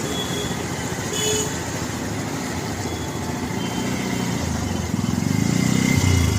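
Street traffic under a steady hiss of rain. A short horn toot comes about a second in, and a motorcycle engine grows loud as it passes close near the end.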